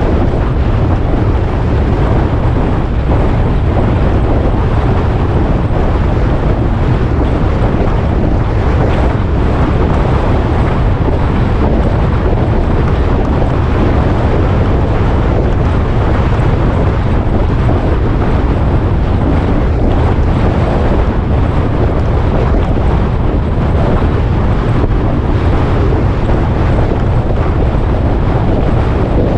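Wind buffeting the microphone on a moving motorcycle: a loud, steady rush that holds level throughout, with the ride's engine and road noise blended underneath.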